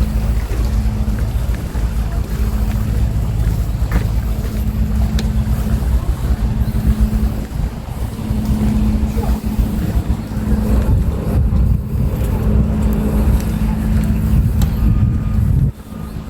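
An engine running steadily at a constant pitch, with wind buffeting the microphone. The engine hum drops away abruptly near the end.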